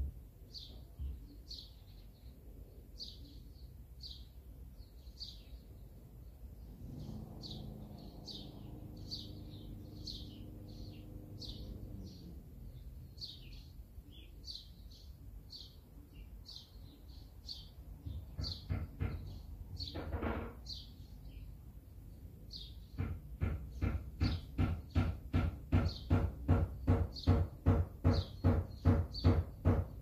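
A bird outdoors repeats a short high chirp about once a second. For a few seconds near the start a low drone hums faintly. In the last quarter a fast, even run of loud knocks, two or three a second, takes over as the loudest sound.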